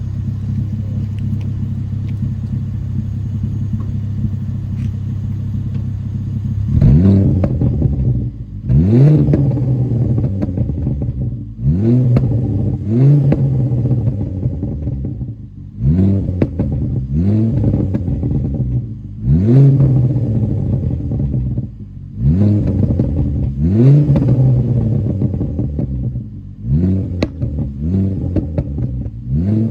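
Car engine through a cat-back exhaust with the rear silencer (back box) removed: a steady idle for about seven seconds, then about a dozen quick throttle blips, each rising sharply and dropping back, burbling as the revs fall.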